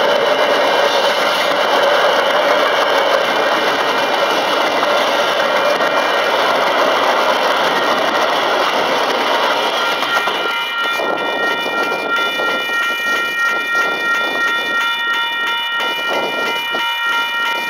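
Container freight train wagons rolling over the level crossing, a steady rush of wheel and rail noise. About ten seconds in the rush eases, and the crossing's Western Cullen Hayes electronic bell comes through as a steady ringing tone.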